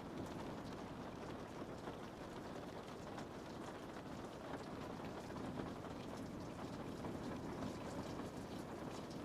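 Steady rain on a window pane: an even hiss dotted with the small ticks of individual drops.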